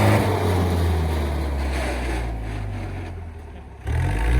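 Diesel tractor engine running, its note dropping and fading away, then revving up again with a rising pitch near the end.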